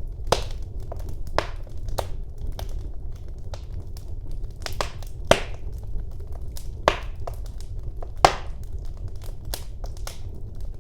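Wood fire burning in a fireplace: a steady low rumble of the flames with irregular sharp crackles and pops of burning wood, the loudest pop a little after eight seconds in.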